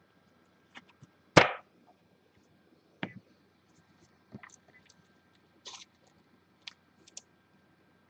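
Trading cards and packs being handled on a table: scattered short clicks and taps, the loudest a brief crisp burst about a second and a half in.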